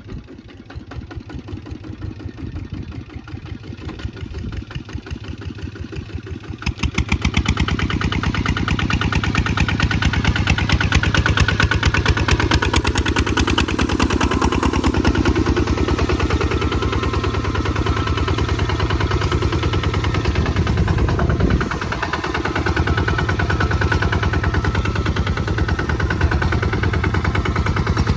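Kubota ZT 155 DI single-cylinder diesel engine running with a rapid, even chug. About seven seconds in it turns suddenly louder and busier and stays so, with a brief dip about three-quarters of the way through.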